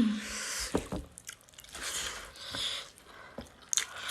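A person chewing a mouthful of food close to the microphone, in two spells with a short pause between.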